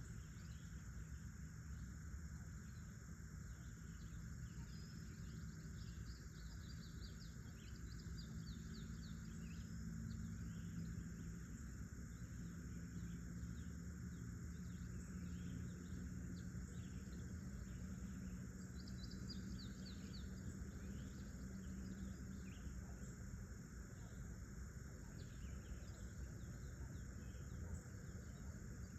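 Faint outdoor nature ambience: small birds calling in short, rapid trills every so often, over a steady insect hiss and a low rumble.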